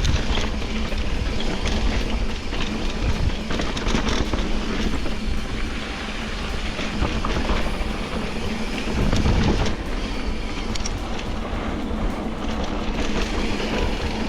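Wind rushing over the microphone and a bicycle rattling and clicking over rough pavement while riding, a steady rumble with many small knocks.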